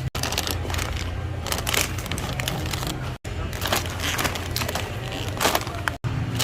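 Grocery-store ambience: a steady low hum under frequent clicks, knocks and rustles of goods and packaging being handled. It drops out abruptly three times.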